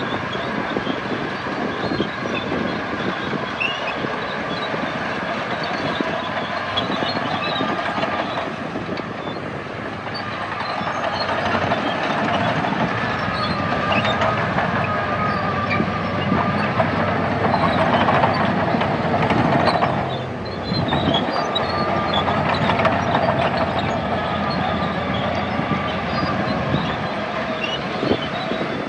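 Crawler bulldozer working: its diesel engine runs under varying load over the continuous clatter of its steel tracks. The engine grows louder through the middle and dips briefly about twenty seconds in.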